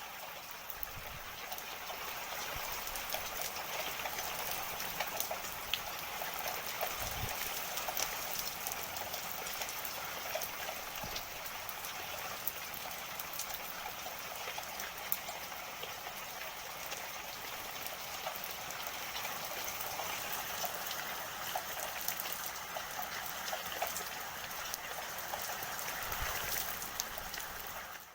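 Steady rain falling, with many individual drops ticking sharply on hard surfaces.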